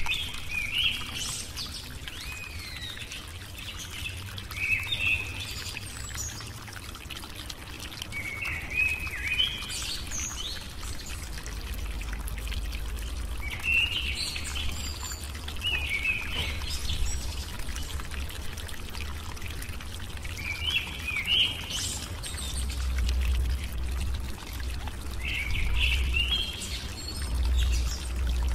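Birds chirping in short bursts every few seconds, over a low steady rumble.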